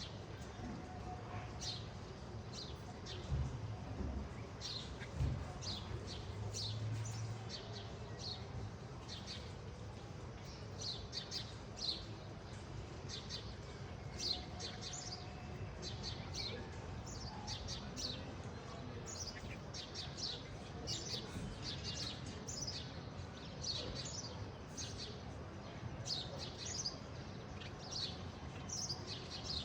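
Small birds chirping: many short, high, falling chirps, repeated throughout, with a few low thumps around three to five seconds in.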